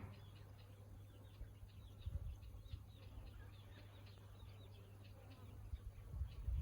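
Small birds chirping, many short high chirps a second, faint, over a steady low hum, with a few low thumps about two seconds in and near the end.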